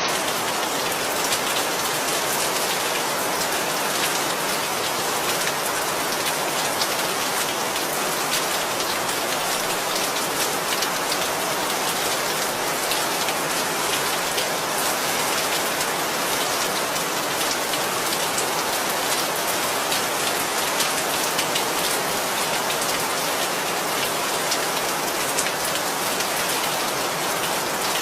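Steady rain falling, a dense even hiss of drops hitting a surface with fine individual drop ticks throughout.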